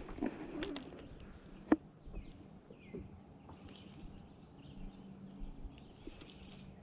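Birds chirping in short, gliding calls, with a few sharp knocks in the first two seconds, the loudest about 1.7 s in, over a faint steady low hum.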